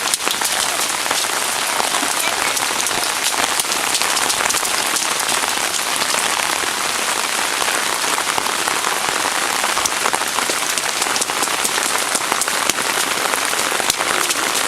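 Heavy rain pouring down: a steady hiss, with many close drops ticking.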